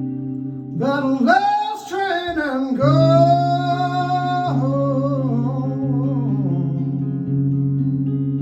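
A man singing a slow, drawn-out blues line over guitar, with a steady low bass note under it. The voice comes in about a second in, holds one long wavering note, and fades out about six seconds in, leaving the guitar ringing.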